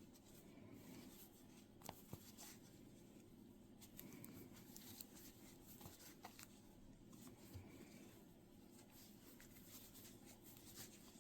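Near silence with faint, scattered rustles and small ticks of a crochet hook working yarn through single crochet stitches.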